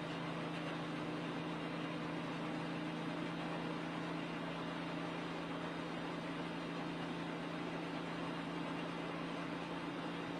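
NASCAR Cup stock car's V8 engine running at steady revs, heard from inside the cockpit as a constant low drone under a hiss of wind and road noise.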